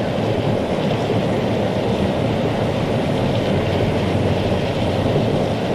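Steady low rushing noise with no separate events, the kind made by road noise or wind.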